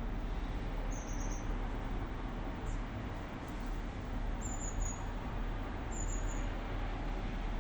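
Steady outdoor rumble of traffic, with a few short, high, slightly falling chirps from a bird: about a second in, again near three seconds, and twice more in the second half.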